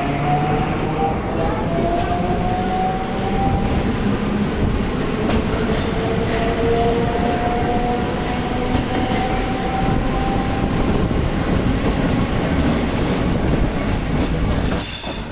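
EMU suburban electric train running along the track, heard from on board, with a steady rumble and a motor whine that slowly rises in pitch as it gathers speed.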